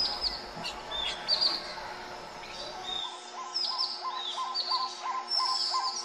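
Songbirds calling: short, high chirps that sweep downward, repeated again and again, joined about halfway through by a lower note repeating steadily about two or three times a second.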